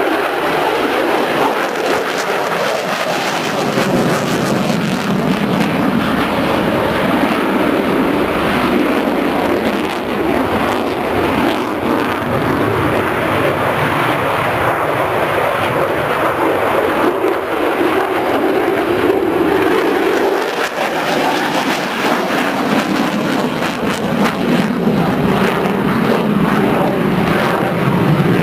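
A military aircraft in flight, its engines making a loud, continuous noise whose pitch shifts up and down as it moves.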